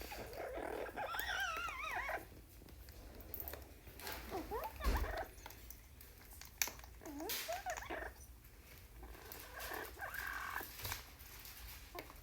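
Amazon parrot vocalizing: a wavering, warbling call about a second in, then several whistled notes sliding up and down, with a few sharp clicks in between.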